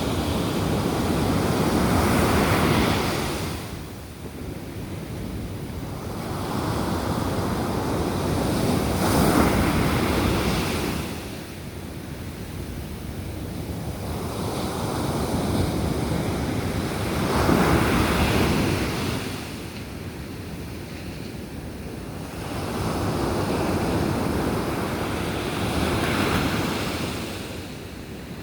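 Ocean waves breaking and washing up a sandy beach, four in turn about every eight seconds, each swelling up and then drawing back.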